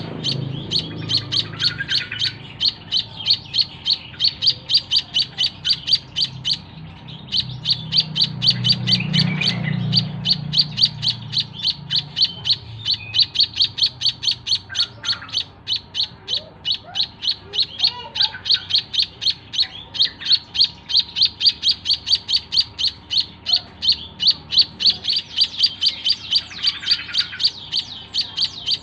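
White-headed munia (emprit kaji) chirping in a fast, even run of high, repeated calls, broken by a short pause about seven seconds in. A low rumble sounds under the calls around eight to ten seconds in.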